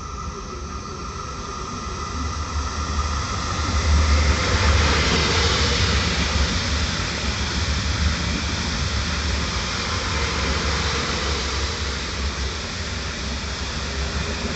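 Electric passenger trains running along the platform track: the rumble and rail hiss of a Koleje Mazowieckie multiple unit rise to a peak about four seconds in as it passes close by. A PKP Intercity electric multiple unit then draws in alongside, keeping the rumble going.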